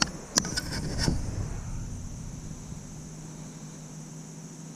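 A few sharp clicks and knocks in the first second, over a steady high chirring of crickets; a faint low steady hum comes in about halfway through.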